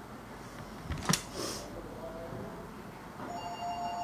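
Quiet bench room tone with one sharp click about a second in, followed by a brief soft hiss.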